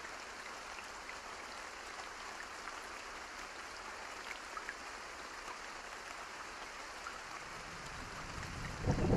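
Steady rain falling, an even hiss with scattered individual drops ticking. Near the end a low rumble of thunder builds in and quickly becomes the loudest sound.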